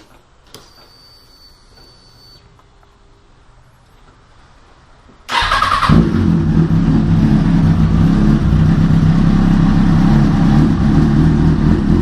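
2005 Kawasaki Ninja ZX-6R 636's inline-four, fitted with a Two Brothers carbon slip-on exhaust, cold-started: after a faint high whine, the starter cranks for about half a second a little over five seconds in. The engine then catches and settles into a steady, loud cold idle.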